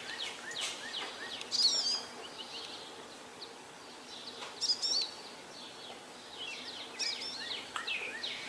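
Wild birds singing: repeated short phrases of high chirps and whistled notes, the loudest bursts near 2 s and 5 s in, over a faint steady background hiss.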